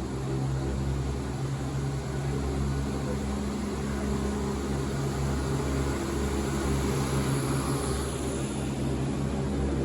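Steady low engine drone of a vehicle in motion, with a constant hum and hiss, a little louder from about half a second in.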